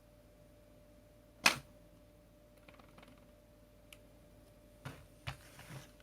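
Plastic vacuum-cleaner parts being handled: one sharp click about a second and a half in, then a few faint ticks, and near the end a quick run of clicks with a short rustle.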